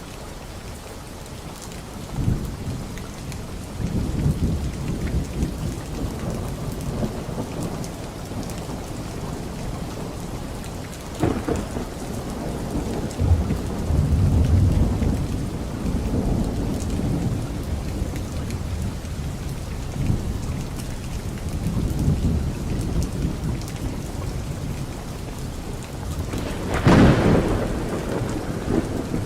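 Heavy rain falling steadily, with thunder rumbling low on and off throughout. There is a sharp thunderclap about eleven seconds in and a louder one near the end.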